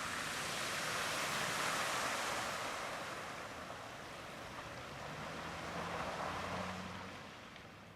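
Floodwater rushing, a steady noisy wash that swells and then slowly fades, with a faint low hum coming in about five seconds in.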